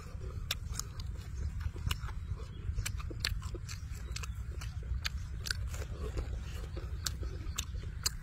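Close-up mouth sounds of someone biting and chewing crispy fried chicken: irregular crunches and wet smacks, several a second, over a steady low rumble.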